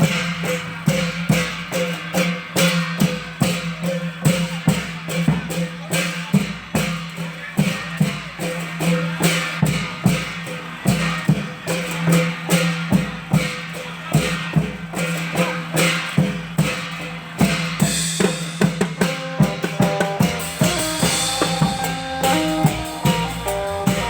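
A Thai klong yao long-drum band plays a steady, driving drum beat under a plucked-string melody. About eighteen seconds in, the drumming thins and the melody notes come to the front.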